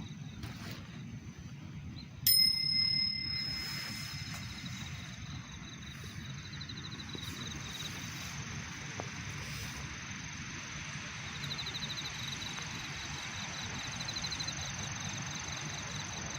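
A single metallic bell-like ding about two seconds in, ringing with several clear tones and fading over a couple of seconds. Underneath, a steady high-pitched trill and a low rumble carry on throughout.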